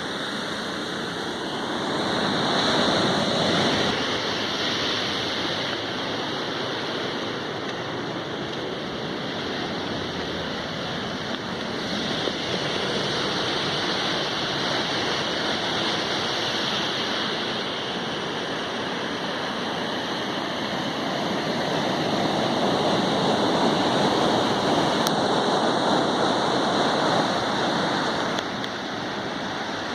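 Ocean surf washing onto a beach in a steady rush of noise, swelling louder as waves break a few seconds in, again in the middle, and more broadly near the end.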